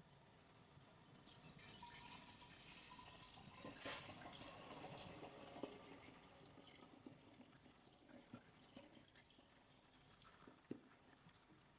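Faint running water that swells about a second in and slowly fades, with a few small clicks.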